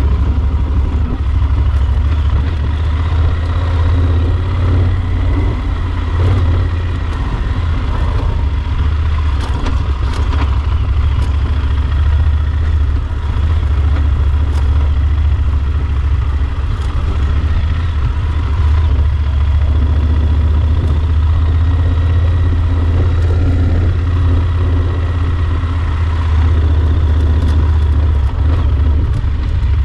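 Yamaha Super Ténéré XT1200 motorcycle's parallel-twin engine running steadily, with a strong constant low drone.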